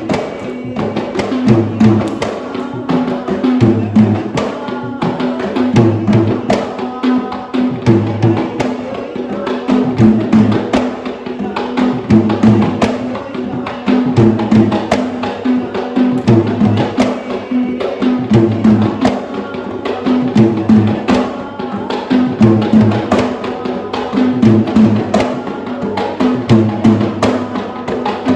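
Sri Lankan traditional drumming: hand drums played in a steady, repeating rhythm of deep strokes and sharp higher beats, over a sustained droning tone.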